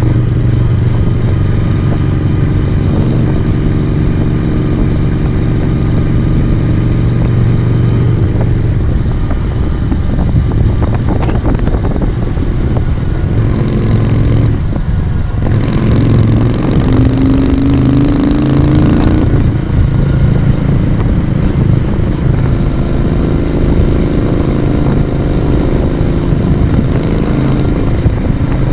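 1982 Moto Guzzi V35 café racer's V-twin engine and exhaust running steadily under way. A little past halfway the pitch rises for a few seconds as the bike accelerates, then drops back to a steady note.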